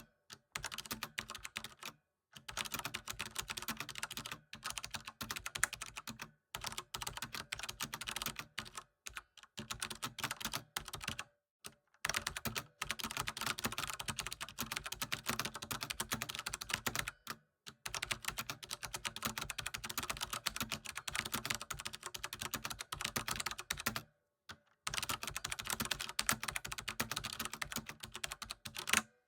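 Computer keyboard being typed on fast and continuously, a dense run of key clicks broken by several brief pauses.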